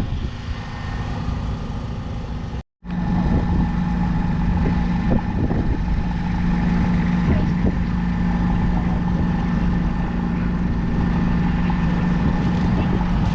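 JCB Fastrac 4220 tractor's 6.6-litre six-cylinder diesel engine running at a steady speed. The sound cuts out for an instant about three seconds in, then the engine carries on with a strong, even note.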